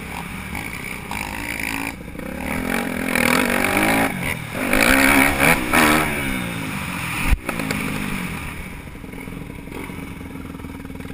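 Dirt bike engine revving up and down as it is ridden round a motocross track, loudest about four to six seconds in. A sharp knock comes about seven seconds in, after which the engine runs lower and quieter.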